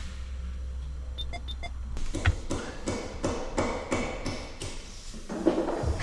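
A steady low hum, then a few short electronic beeps about a second in, followed by a run of regular ticks at roughly three a second.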